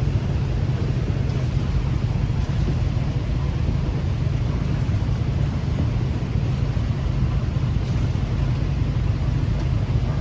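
Steady low rumble of the sailing yacht's inboard engine running slowly.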